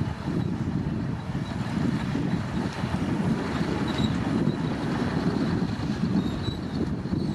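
Komatsu D65P bulldozer's diesel engine running steadily with a dense, even low rumble.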